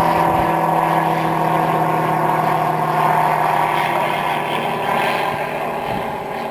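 Radio-controlled model aircraft engine buzzing steadily in flight, easing off slightly near the end.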